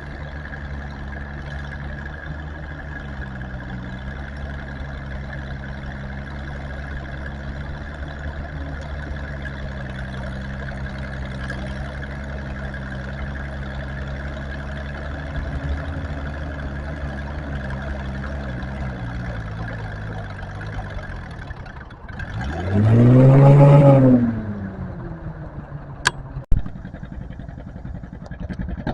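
Tractor engine running steadily, then revved hard once for about two seconds about 22 seconds in, its pitch rising and falling back. Two sharp clicks follow a few seconds later.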